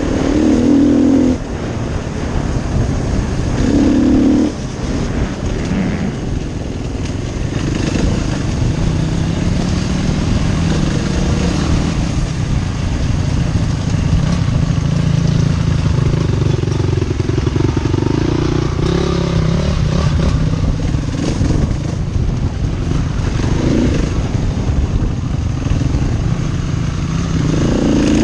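KTM enduro motorcycle engine under way on a dirt trail, revs rising and falling with the throttle, with short hard bursts of throttle near the start, about four seconds in, and near the end.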